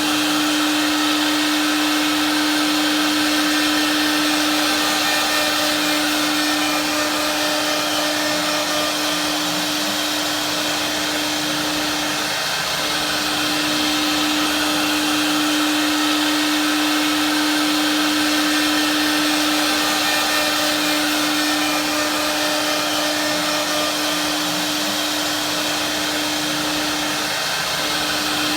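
CNC machine running with a steady motor whine over a hiss, the tone dipping briefly about halfway through and again near the end.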